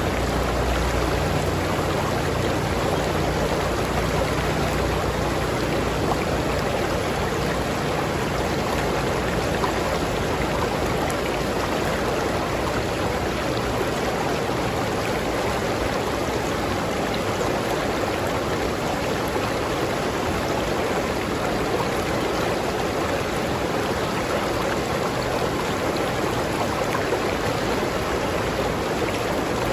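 River water flowing and rushing steadily, an even, unbroken sound with no pauses or changes.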